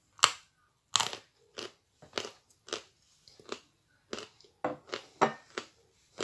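Close-up chewing of dry, crunchy edible clay: about a dozen sharp crunches, roughly two a second and unevenly spaced.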